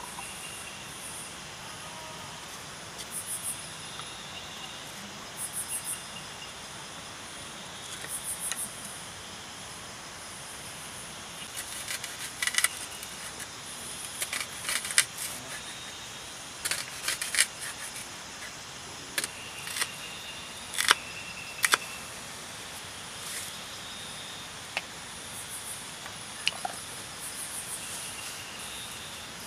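A knife cutting food on a cutting board, a run of sharp taps in the middle of the stretch, over a steady chorus of crickets and other insects with short pulsed chirps in the first part.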